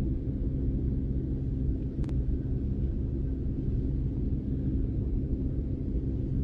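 Steady low rumble, with a single short click about two seconds in.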